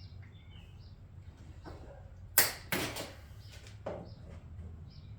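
Zip ties being snipped with cutters: two sharp snaps about half a second apart near the middle, then a fainter click about a second later.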